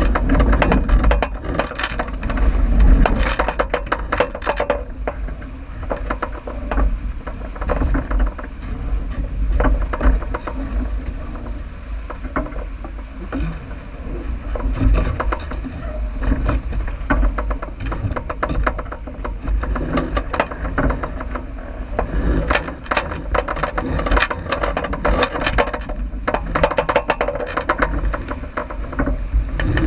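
J80 sailboat under way downwind: wind buffeting the microphone and water rushing along the hull, with frequent clicks, knocks and rattles from the boat's gear.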